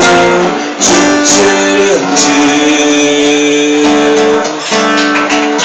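Live band music led by guitar, an instrumental passage with held chords and a few percussion hits, near the end of the song.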